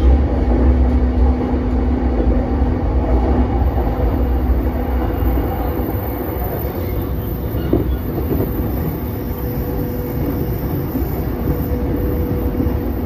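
In-cabin running sound of a JR East E233-5000 series electric train at speed: a steady low rumble of wheels on rail with a faint steady hum. There is a single knock about eight seconds in.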